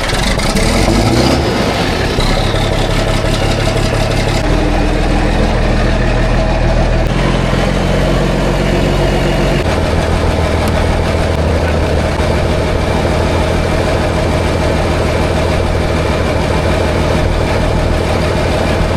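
John Deere 4430's turbocharged six-cylinder diesel engine just caught on a cold start, its speed rising in the first second and then running loud and steady, with the engine speed changing a few times around four, seven and ten seconds in.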